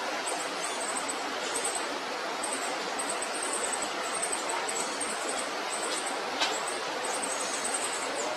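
Very high, thin cheeps of a baby bird begging for food, short and repeated in quick runs, over a steady hiss.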